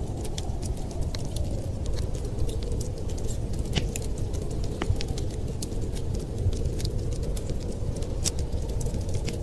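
Wood fire crackling: many small, sharp, irregular pops and snaps over a steady low rumble.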